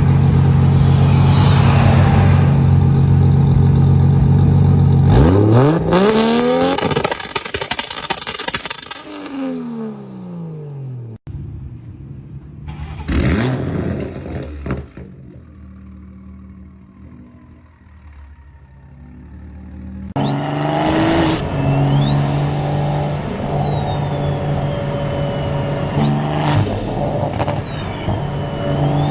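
Toyota Supra exhausts, several cars one after another: an engine held steady at high revs, then revs falling and rising. After a quieter stretch, another Supra runs with high whistling tones that sweep up and down.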